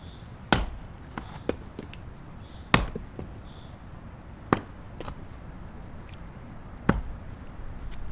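Wood being chopped: four sharp, heavy blows at irregular gaps of about two seconds, with a few lighter knocks between them.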